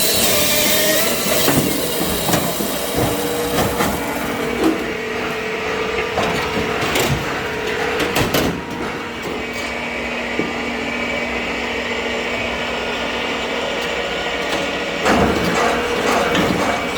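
Firewood-cutting machinery working oak logs: a steady machine hum with repeated knocks and cracks of wood, which grow busier near the end.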